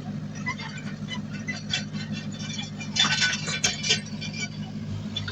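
Diesel engine of heavy earthmoving equipment running steadily, with a flurry of metallic clanks and rattles, loudest about three seconds in.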